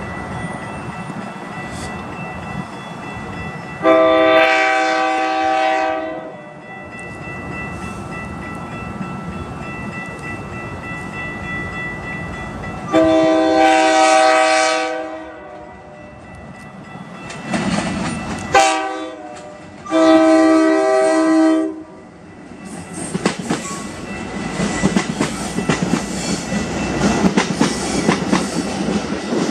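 Metra commuter train's horn sounding the grade-crossing signal: two long blasts, a short one and a long one. Then the train passes close by, its wheels clicking over the rail joints, louder toward the end.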